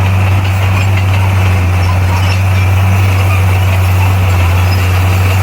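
Bulldozer's diesel engine running at a steady speed, a constant low drone with no revving.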